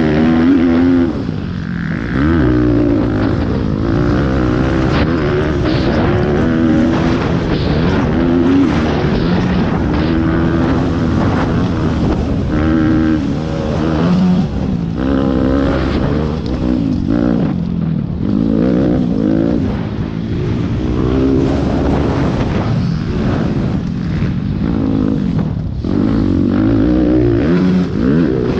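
Small single-cylinder pit bike engine racing hard, its revs rising and falling over and over as it accelerates, shifts and backs off through the corners of a dirt track.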